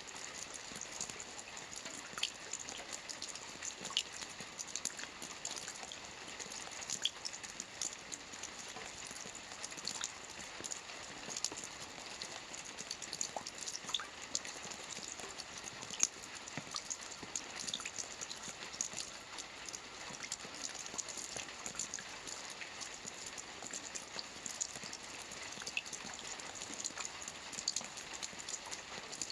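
Rain falling on a lake: a steady hiss with many small, irregular drop patters and splashes.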